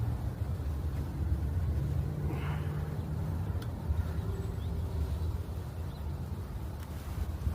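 Light rail train running, a steady low rumble with a faint hum.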